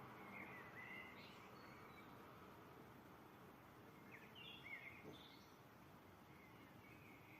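Faint bird chirps and short song phrases over a low steady background hiss, coming in three clusters: in the first second and a half, around four to five seconds in, and near the end.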